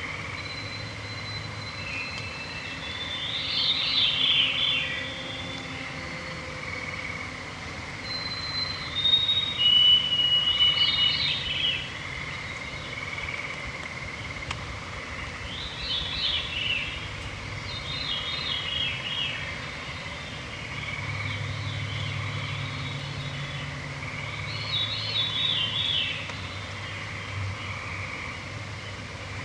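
Songbirds singing in a forest at dusk. There are clear, held whistles and several songs that spiral down in a fast cascade of notes, each lasting a second or two and repeating every few seconds, over a steady high-pitched background chorus.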